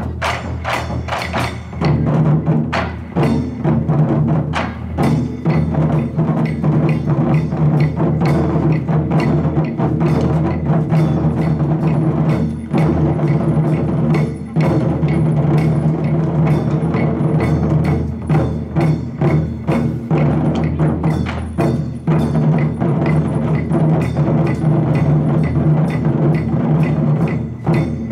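Japanese taiko drums played by an ensemble: a dense, continuous run of drum strokes with sharp hits on the drums.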